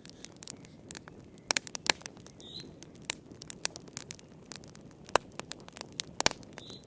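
Wood fire burning in a fireplace: irregular crackles and sharp pops over a low, steady rush of flame.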